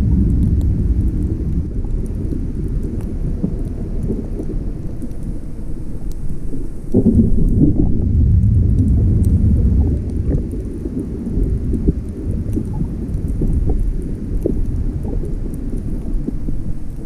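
Muffled water noise picked up by a camera filming underwater: a loud, steady low rumble with faint scattered crackles, swelling about seven seconds in.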